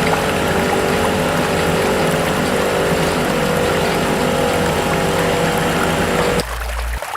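Small electric motor of a homemade miniature water pump running steadily with a hum, water rushing through it; it stops about six seconds in.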